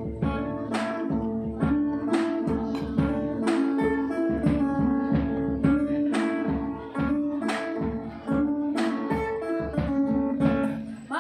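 Acoustic guitar strumming chords in a steady, even rhythm, the instrumental opening of a song before the singing begins.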